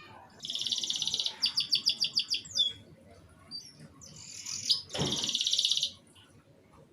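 Domestic canary singing in short phrases: a fast rolling trill, then a run of separate chirps at about eight a second, and after a pause of about two seconds another fast trill.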